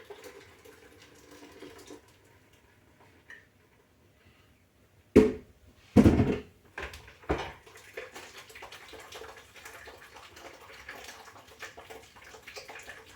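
Kitchen work with dishes and utensils while straining blended coconut for coconut milk: a few sharp knocks of dishes about five to seven seconds in, then faint handling noise with a little water.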